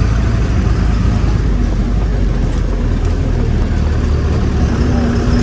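Truck engine running with road noise, heard from inside the cab while driving, a steady low rumble; a steady hum comes in near the end.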